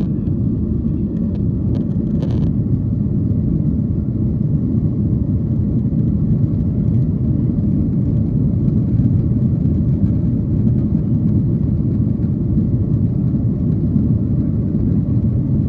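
Steady low rumble of a Boeing 737-800's CFM56 jet engines and airflow heard from inside the passenger cabin at takeoff power.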